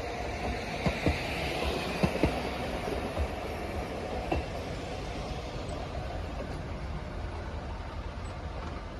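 Sangi Railway Hokusei Line 270-series electric train, driven by nose-suspended traction motors, pulling away and fading into the distance. Its wheels give a few sharp clacks in the first few seconds.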